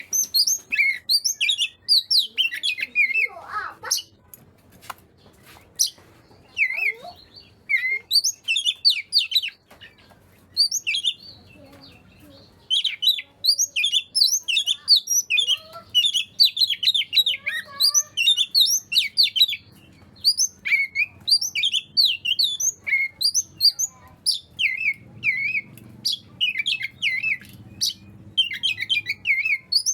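Oriental magpie-robin (kacer) singing in full voice: fast, varied phrases of sharp chirps and whistles, broken by short pauses.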